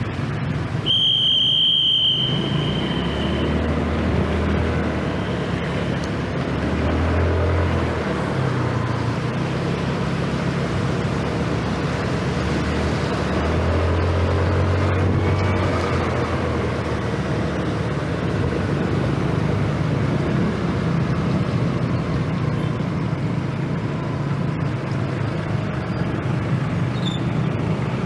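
Scooter engine running on the move under steady wind and road noise, its pitch stepping up and down with the throttle and rising a little past the middle. A brief high-pitched beep sounds about a second in.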